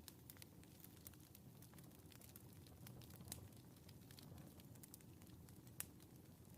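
Faint wood fire crackling in a fireplace: scattered small sharp pops over a low steady rumble, with two louder pops about halfway and near the end.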